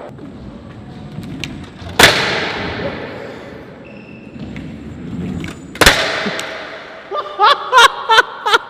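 Two loud clattering impacts about four seconds apart: an electric scooter slamming down on concrete during trick attempts. Short shouts from voices follow near the end.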